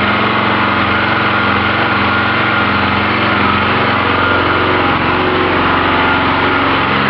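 Small 2.5 kW portable generator engine running steadily on charcoal gas from a gasifier, under load.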